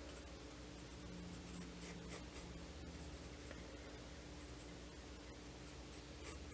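Pencil scratching on sketchbook paper in short, faint strokes, over a steady low hum.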